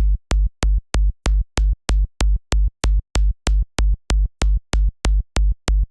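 Synthesized electronic kick drum hitting in a steady loop about three times a second, each hit a sharp click over a deep, short low boom.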